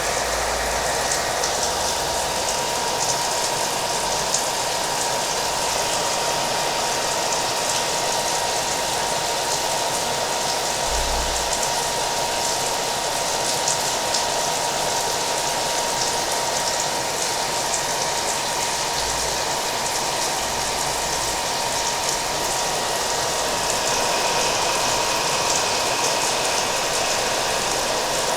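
Hair dryer running steadily, its motor giving a constant whine over the blowing air, mixed with steady rain. The sound does not change.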